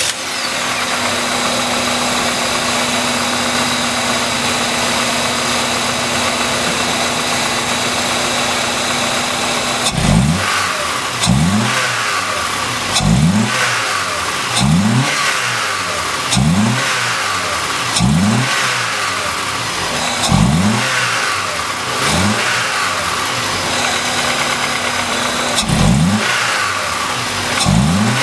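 Car engine breathing through a BMC OTA carbon-fibre intake airbox, idling steadily, then blipped at the throttle about ten times from about ten seconds in. Each blip is a quick rise in revs that drops straight back to idle.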